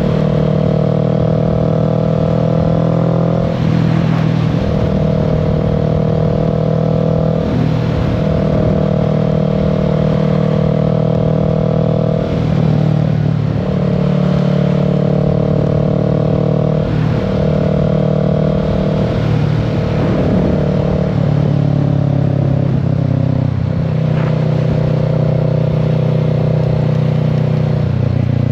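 Kawasaki Z650's parallel-twin engine running under way at a steady note, dipping briefly every few seconds as the throttle is eased off and back on.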